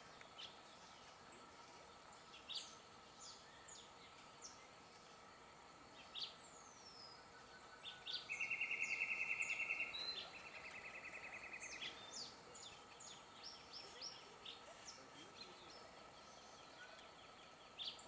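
Wild birds calling: short high chirps and whistles scattered throughout. About eight seconds in comes a loud, rapid, even trill, which carries on more softly for another two seconds before stopping.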